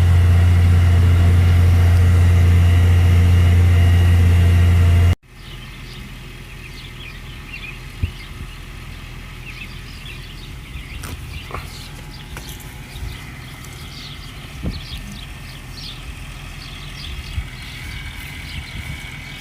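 Tractor engine running steadily under load, a loud low drone, that cuts off abruptly about five seconds in. After that, a much quieter outdoor background with scattered faint high chirps and a few light clicks.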